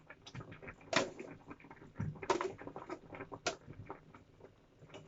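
Kitchen handling noises: a pot and utensils being knocked and moved, with three sharper knocks over a few seconds among lighter clicks.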